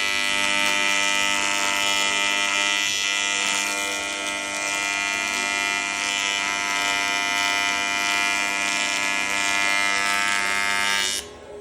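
Welding arc buzzing and hissing steadily in one continuous bead, then cutting off abruptly near the end.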